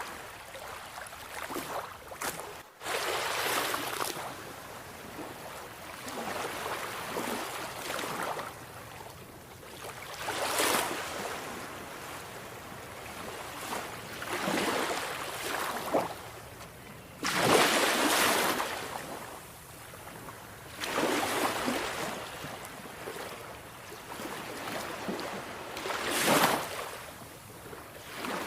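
Sea waves breaking on a shore, a surge of surf swelling and washing back every few seconds.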